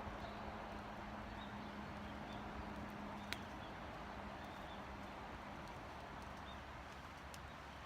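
Small wood fire burning in a Firebox stove, a steady hiss with one sharp crackle a little over three seconds in.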